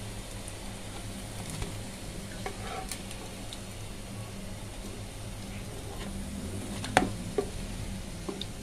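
Potato-and-chicken patties shallow-frying in oil, a steady soft sizzle under a low hum. A metal spatula scrapes and knocks against the frying pan as patties are lifted out, most sharply about seven seconds in.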